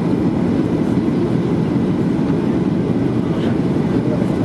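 Boeing 737-800 heard from inside the passenger cabin: a deep, steady rumble of engine and airflow noise that holds constant throughout.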